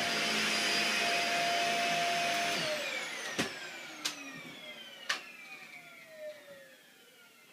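Dyson DC50 Animal upright vacuum cleaner running steadily, switched off about two and a half seconds in. Its motor then winds down with a falling whine, with three sharp clicks during the run-down.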